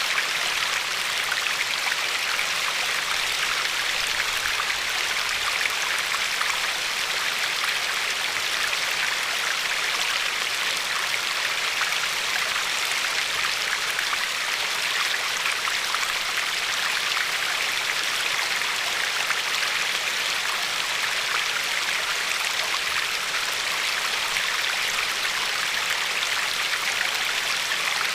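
River water flowing and lapping over a pebbly shore, a steady splashing rush with no pauses.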